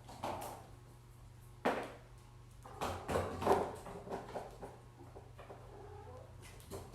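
A cat chirping and meowing in short calls, a handful of times, the sharpest about a second and a half in and a quick run of them around the middle.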